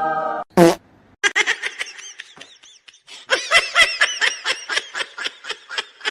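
High-pitched laughter, a quick run of giggles at about six a second, in two bursts with a short break between. A held musical note cuts off just before it.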